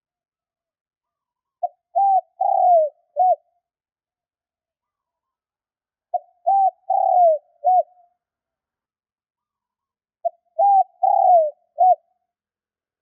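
Spotted dove cooing: three phrases about four seconds apart. Each is a short lead-in note, a coo, a longer falling note and a short closing note. It is the kind of call used to provoke wild spotted doves into answering.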